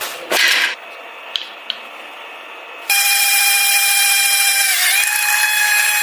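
A small handheld electric power tool switches on about three seconds in and runs with a steady high whine. Its pitch dips briefly a couple of seconds later as it bites under load. Before it there is a short rushing noise and two light clicks.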